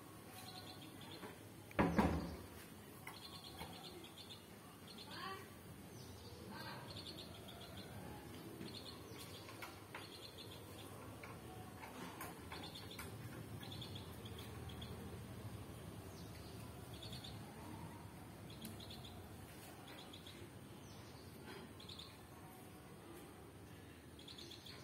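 Faint bird chirping, short calls repeating about once a second, with a single loud thump about two seconds in.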